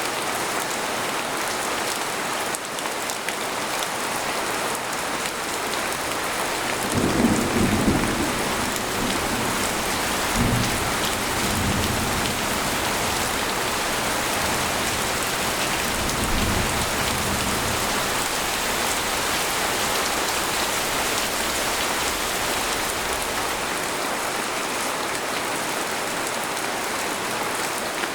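Steady rain falling on a tent, with a thunderclap about seven seconds in that is the loudest moment and rolls on as rumbling for about ten seconds before fading back to the rain alone.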